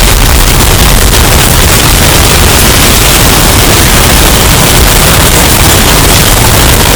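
Hurricane wind sound effect, bass boosted and overdriven into steady, clipped, distorted noise at full loudness, heaviest in the deep bass.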